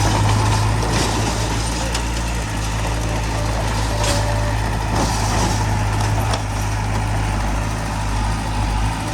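Diesel engine of heavy earthmoving machinery running steadily with a low hum, with a few knocks and a short hiss partway through.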